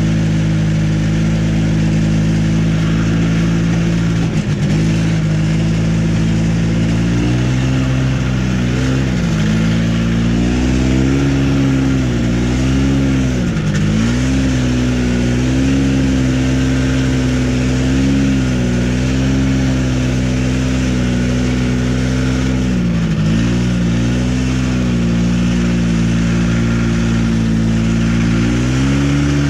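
Old snowmobile's two-stroke engine running steadily. Its pitch sags and recovers several times in the middle and rises near the end.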